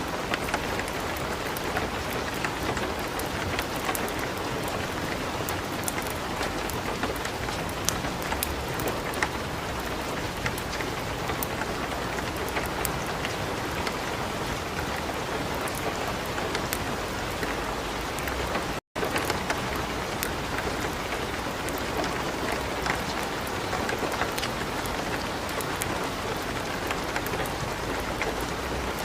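Steady light rain mixed with the crackle of a wood fire burning in a fireplace, with sharp pops scattered throughout. The sound cuts out for an instant about two-thirds of the way through.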